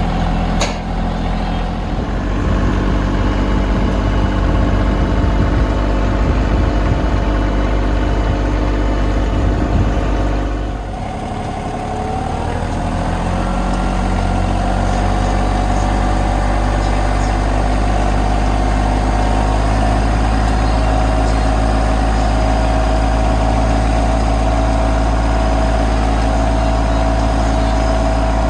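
Old tractor engine idling steadily. About eleven seconds in the sound dips briefly and a different steady engine note takes over.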